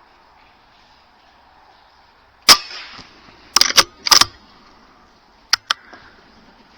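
Air rifle shots: one sharp crack about two and a half seconds in, a quick cluster of further cracks a second later, and two lighter clicks near the end.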